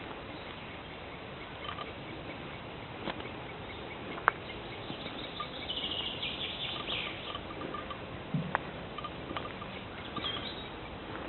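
Birds singing over a steady background hiss, with one song louder about six seconds in and short repeated calls scattered through. Two sharp clicks stand out, the louder one about four seconds in.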